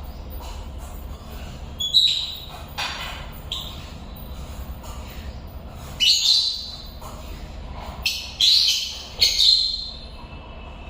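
African lovebirds giving short, shrill squawking calls, several times and a few seconds apart, the loudest a pair near the end.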